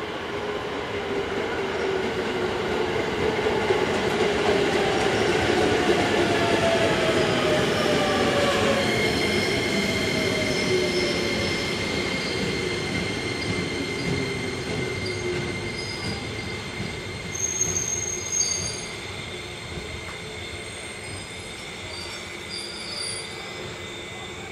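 Electric commuter train arriving and braking to a stop: a whine that falls in pitch as it slows, then a steady high-pitched wheel and brake squeal from about nine seconds in.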